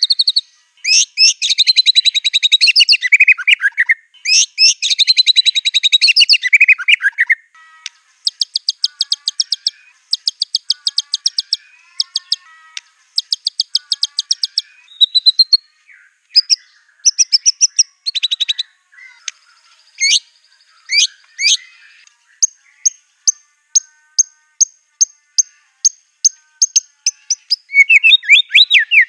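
White-rumped shama (murai batu) singing a loud, varied song stuffed with mimicked phrases of other songbirds. It opens with rich warbled phrases, moves to fast rattling trills and single whistled notes, then gives a run of short sharp notes about two a second before dense song again near the end.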